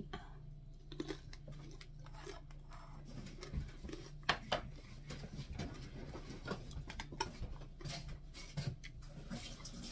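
A person chewing dried fish, with a scatter of short, crisp clicks and crunches over a low steady hum.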